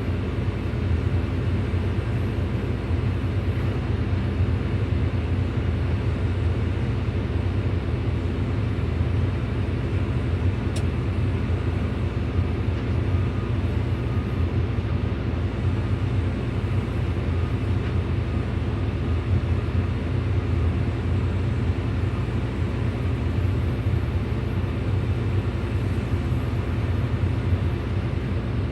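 Hydraulic excavator's diesel engine running steadily, a deep, even drone that holds the same pitch throughout.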